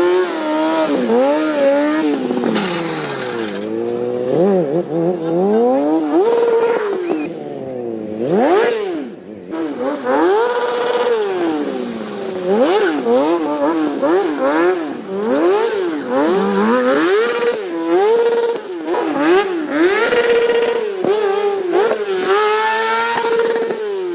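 Motorcycle engine revved up and down over and over, the pitch sweeping in quick rises and falls and repeatedly holding flat at the top of its revs.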